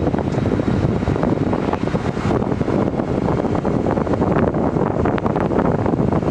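Loud wind buffeting the microphone, a steady low rumble with choppy gusts.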